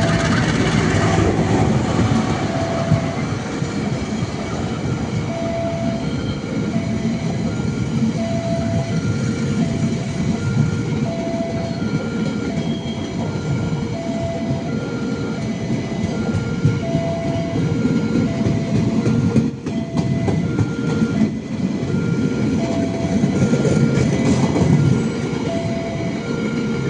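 A train passing a level crossing, its wheels rumbling and clacking over the rails, while the crossing's warning alarm repeats a steady alternating two-tone ding about once a second.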